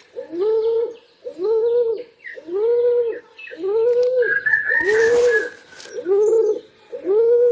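A pigeon calls over and over, about once a second, each call rising and then falling in pitch. About halfway through, a brief higher call and a short rustling hiss come in over it.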